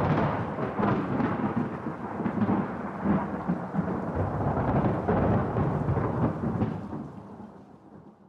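A thunderclap that starts abruptly and rolls on as a long crackling rumble, slowly dying away over about eight seconds.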